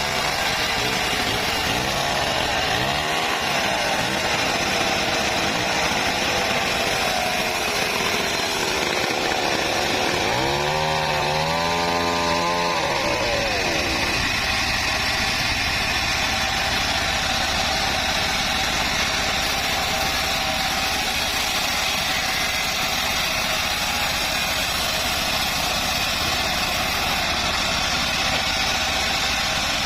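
Homemade bandsaw mill running and sawing acacia wood: a steady, loud blade-and-motor noise. Its pitch rises and falls briefly about three seconds in, and again for several seconds between about ten and fourteen seconds in.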